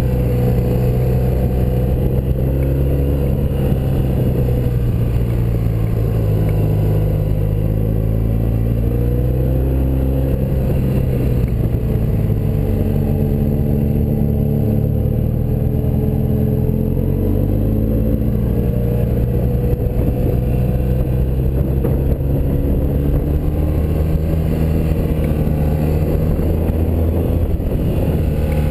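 1984 BMW R100RS's air-cooled flat-twin engine running as the motorcycle is ridden, its pitch falling and rising several times as the revs change.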